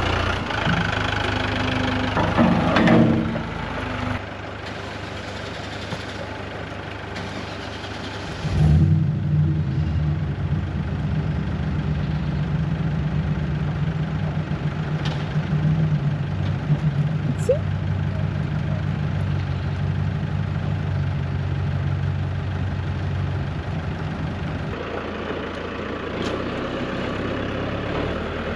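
A vehicle engine running. About eight and a half seconds in, a louder, steady low engine note starts suddenly and keeps running.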